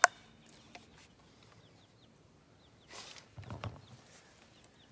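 A bird chirping faintly in short falling notes, repeated throughout. Over it comes handling noise: a click at the very start, then rustling and a couple of dull thuds about three seconds in.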